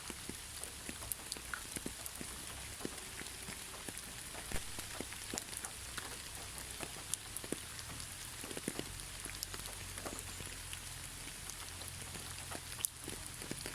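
Steady gentle rain, with many separate drops striking surfaces at irregular moments among a constant hiss of rainfall.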